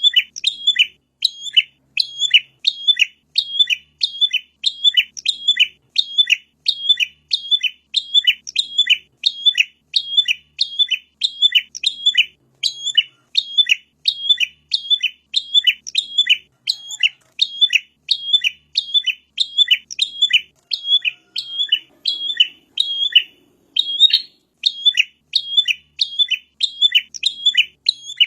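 Prinia (prenjak) calling: a fast, even series of sharp, high chirps, about two a second, repeated without a break.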